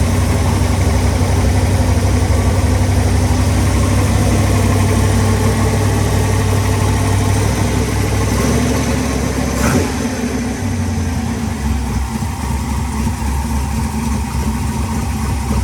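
1933 Factory Five hot rod's V8 engine idling after a cold start. The fast idle drops to a lower, quieter idle about nine seconds in, with a single click as it changes.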